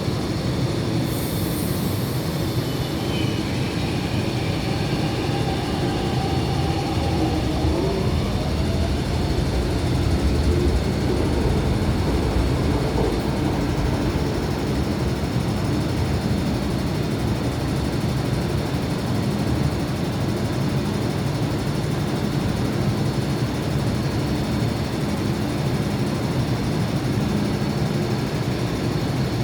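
MTR Kwun Tong Line C-train electric multiple unit running into a station platform: a steady rail rumble, with a few short whines sliding up and down in pitch during the first several seconds.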